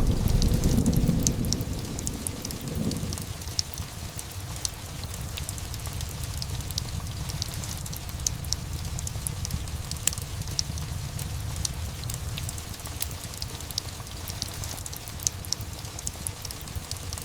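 Steady rain with a fireplace crackling in sharp, scattered pops. A low roll of thunder dies away in the first few seconds.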